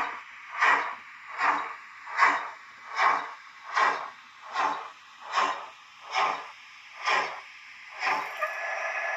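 DCC sound decoder in a Liliput BR 75 model steam locomotive playing steam exhaust chuffs, about one every three-quarters of a second, spacing out slightly and growing fainter. Near the end a steady steam hiss takes over.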